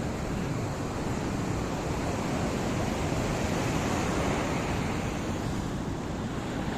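Black Sea waves washing up onto the shore: a steady rush of surf that swells a little in the middle.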